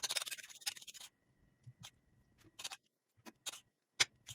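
A short rustle, then a handful of light, scattered clicks and taps of tableware as cooked food is put onto plates.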